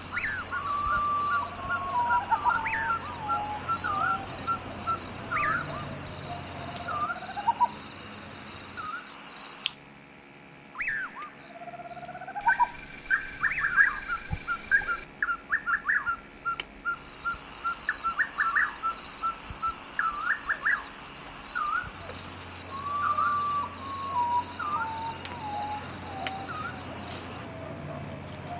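Several birds calling, with quick runs of repeated notes and gliding whistles, over a steady high buzz of insects. The sound cuts off and changes abruptly a few times along the way.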